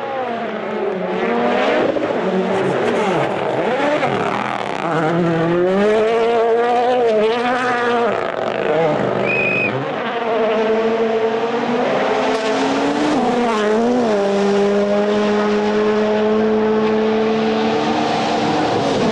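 Rally car's turbocharged 1.6-litre four-cylinder engine at full stage pace, revving up and dropping back repeatedly through gear changes, then held at steady high revs for the last few seconds.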